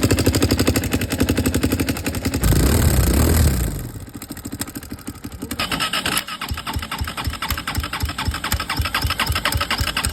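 Motorcycle engine running with a rapid, even beat, revved briefly about two and a half seconds in, then dropping back to idle. A few seconds later it picks up a louder, rattling clatter. The rider had asked whether it makes a lot of noise, and the engine has failed.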